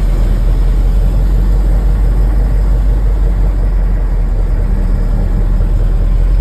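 Heavy truck engine running with a steady, loud low rumble that does not change.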